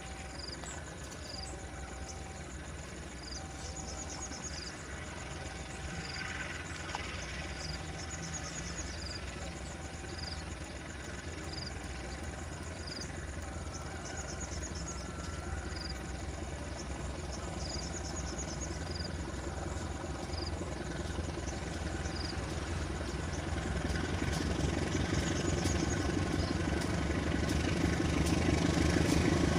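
A train approaching, its low rumble growing louder and rising steeply over the last few seconds. A short high beep repeats about once a second throughout.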